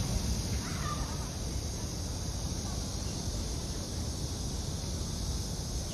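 A bird calls faintly, briefly, about a second in, over a steady low outdoor rumble.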